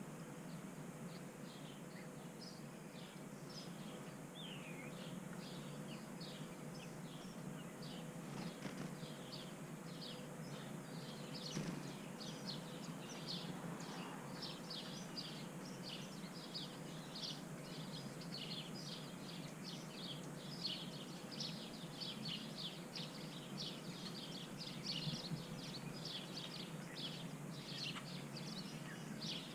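Small birds chirping over and over in short, high calls, a few as quick falling notes, growing busier about a third of the way in. A faint steady hum runs underneath.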